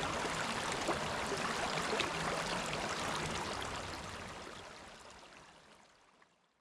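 River water running and babbling, a steady rush with small splashes, fading out over the last few seconds.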